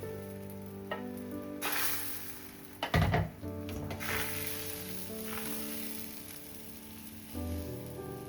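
Food sizzling in a hot pan, the hiss swelling and fading, over soft background music. A sharp clatter about three seconds in.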